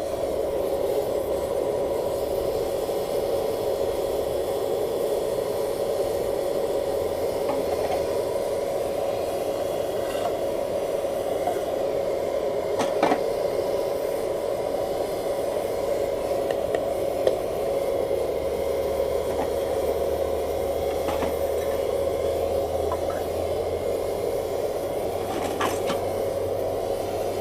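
Blower forcing air into a briquette-fired paint-can furnace, running steadily with a constant whine and rush of air, while aluminium cans are melted. A few faint clicks sound at about halfway, two-thirds and near the end.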